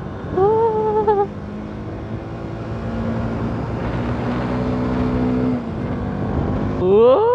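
Bajaj Pulsar NS200's single-cylinder engine heard while riding: a short rev about half a second in, then a steadier lower note through the middle, then a sharp rise in pitch near the end as it is revved hard, the loudest part.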